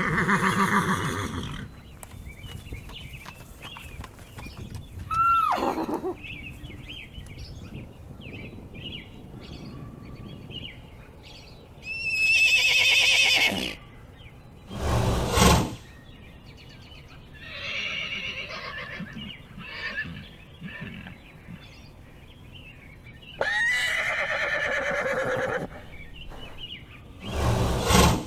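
Horses neighing and whinnying, about half a dozen separate loud calls with a quavering pitch, one sliding downward, with short pauses between them.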